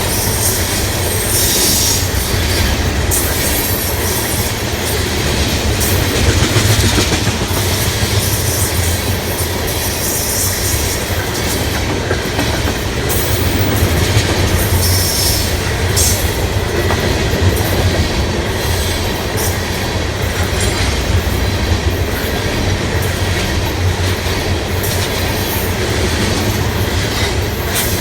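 Ethanol freight train rolling past: a steady heavy rumble of steel wheels on rail, with clicking over the rail joints and brief high wheel squeals every few seconds.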